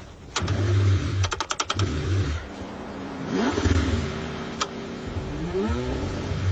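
Car engine cranking on a cold start, in uneven low chugging bursts, with a quick run of clicks about a second and a half in and a pitch that rises near the end.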